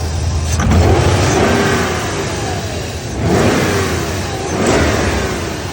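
BMW M60B44 4.4-litre V8 engine running and revved three times, the pitch rising and falling with each blip of the throttle. It runs without the lifter knock, now that it has been fitted with hydraulic lifters from a ZMZ-406 engine.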